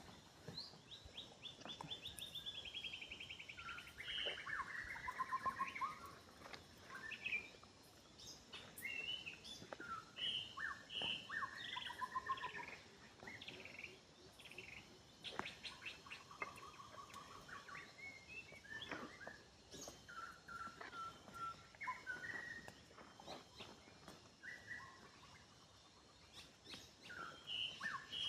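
Several birds singing and calling: a chorus of chirps and quick trills that overlap and come and go, with a few faint clicks about halfway through.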